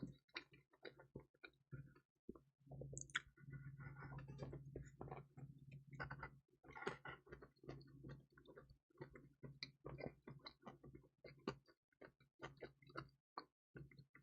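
Close-miked chewing of crispy, cheesy pizza: soft, irregular crunches and wet mouth clicks in quick succession.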